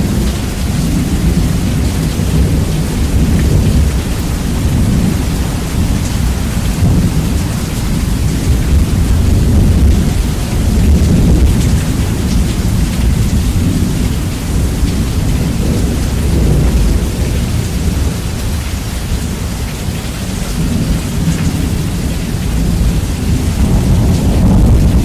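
Heavy rain with rolling thunder, bass boosted and heavily distorted, so a loud, continuous low rumble swells and eases over several seconds beneath the hiss of the rain.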